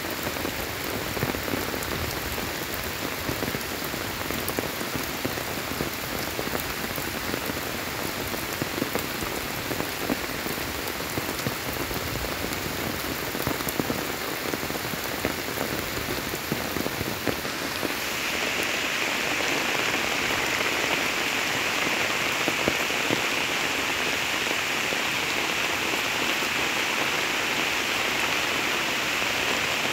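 Heavy rain falling steadily on the standing water of a flooded rice paddy, a dense hiss with scattered pattering drops. About two-thirds of the way through, the sound turns brighter and slightly louder.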